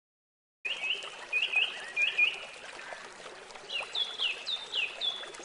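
Birds calling over a steady background hiss, starting abruptly about half a second in: first three quick pairs of short hooked chirps, then a run of about five calls that each sweep down in pitch.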